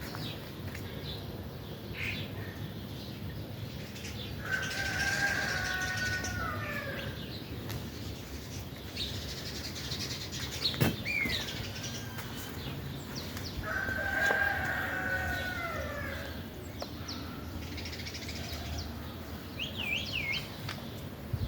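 Birds calling outdoors: two longer, drawn-out calls about nine seconds apart, with short chirps and a quick falling call between them.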